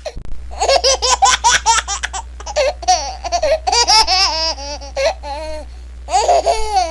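A small child's high-pitched laughter: a quick run of giggles, then several wavering squeals that fall in pitch, the last one near the end.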